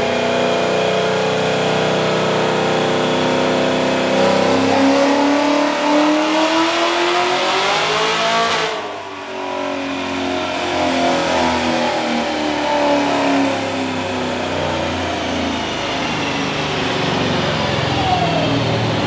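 Supercharged 6.2-litre LT4 V8 of a tuned, roughly 1000 hp 2017 Camaro ZL1 making a dyno pull on the rollers. It runs steadily, then from about four seconds in revs up in one long rising pull. Near halfway it cuts off sharply as the throttle is lifted, then the revs wind down over several seconds as the car coasts on the rollers.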